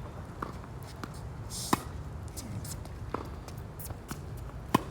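Tennis ball struck by rackets twice, about three seconds apart, with a few fainter knocks in between, over a steady rumble of high wind on the microphone.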